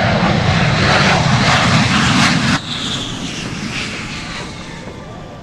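Shockwave jet truck's jet engines running at full power in a short demonstration burst, 'a little huff and puff'. The noise cuts off sharply about two and a half seconds in and then dies away as the engines spool down.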